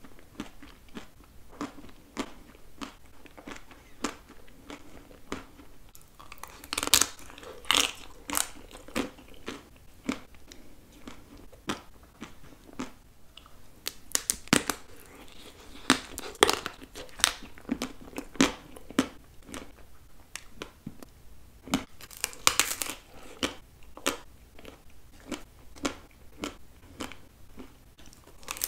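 Close-miked biting and chewing of chocolate-coated ice cream: the hard chocolate shell cracking and a crisp cone crunching, with a steady patter of small crackles and three loud bouts of crunching.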